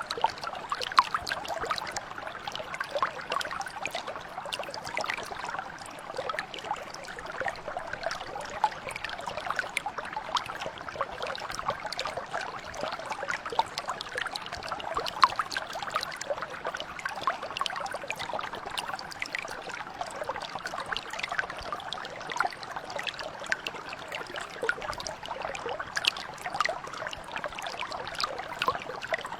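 Small stream or mountain brook flowing steadily over stones, a continuous babble thick with small splashes and trickles.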